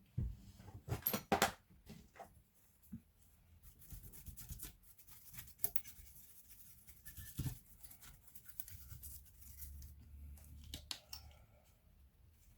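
Sharp clicks and scraping from hands working on a laptop's parts during disassembly, with a loud cluster of clicks about a second in and another click later.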